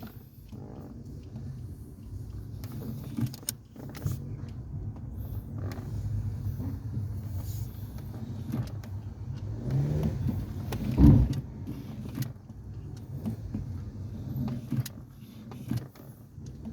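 Nissan Juke with an automatic transmission driving slowly on a test drive: a steady low road and engine rumble with scattered light clicks and a thump about eleven seconds in. No brake grinding is heard now that the brake dust cover has been pushed back off the disc.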